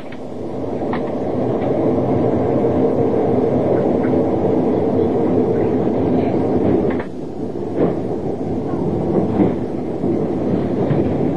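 Trans-Siberian passenger train running on the rails, a steady rumble heard from inside the carriage. The rumble dips briefly about seven seconds in, with a few light knocks after it.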